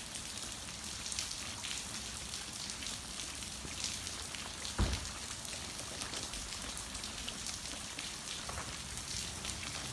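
Steady rain falling, a dense patter of raindrops. One short low thump about five seconds in.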